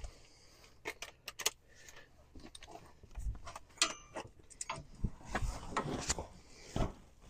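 Irregular metal clicks and clinks from a ratchet, extension and socket being worked on the hub's mounting bolts, with a few short scrapes.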